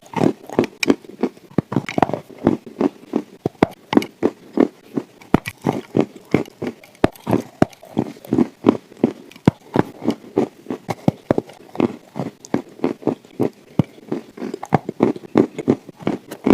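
Dry chalk being chewed close to the microphone: rapid, repeated crunching bites, about two to three a second.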